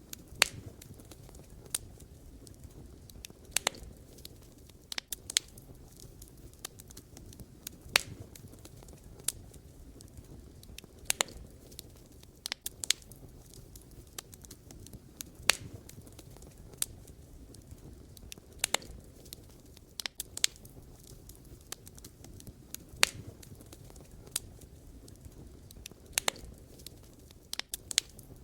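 Wood fire crackling: irregular sharp pops and snaps from burning logs, a few every couple of seconds, over a low steady rumble of the flames.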